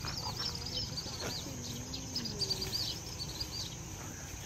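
A songbird singing a quick series of short, arched chirps that stops near the end, over a steady high-pitched insect drone.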